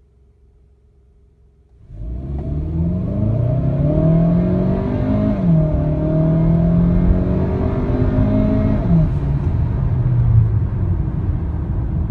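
2016 Kia Optima's engine accelerating hard, starting abruptly about two seconds in. The engine note climbs and then drops twice, about halfway through and again near three-quarters of the way, as the automatic gearbox shifts up.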